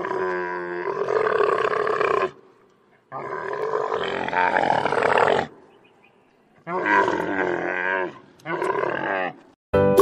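Camel calls: four long, wavering calls. The first two last about two seconds each, and the last two are shorter and close together.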